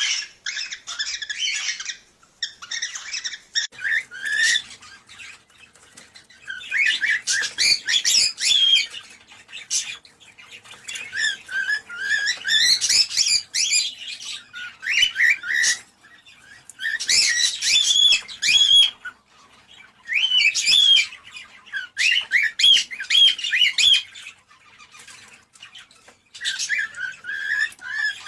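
Cockatiels chattering and warbling with quick chirps and whistles, in bouts of one to three seconds separated by short pauses. This is the kind of calling played to cockatiels to stimulate breeding.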